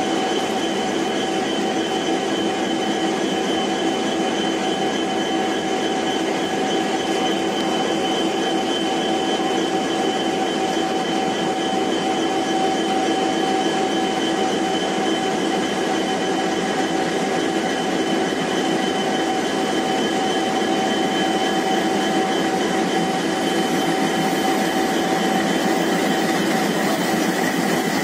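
Passenger train hauled by a diesel locomotive running into the station: a steady mix of engine and rail noise with several constant tones, growing a little louder near the end as the locomotive comes alongside.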